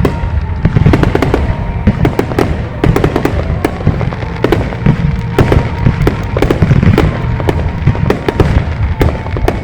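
Aerial fireworks bursting in rapid, overlapping succession: a continuous barrage of booms and sharp crackling reports with a heavy low rumble.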